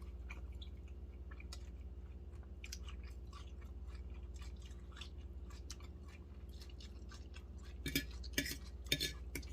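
Chewing and eating sounds with small scattered clicks, a few louder ones near the end, over a steady low hum.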